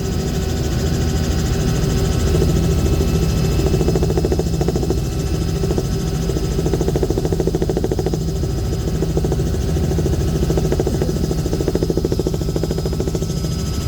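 Aircraft engine and propeller running steadily in flight, with a fast, even pulsing beat and a thin steady whine above it.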